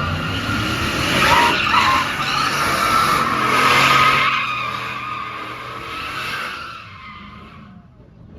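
A car's spinning tyres squealing loudly as it does a burnout or donuts, with its engine running hard underneath. The squeal fades and dies away about seven seconds in.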